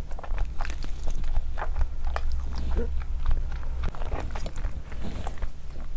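Close-miked chewing of soft fufu dough soaked in curry: a steady run of wet mouth clicks and smacks. Fingers squish through the food on the plate, and a low steady hum sits underneath.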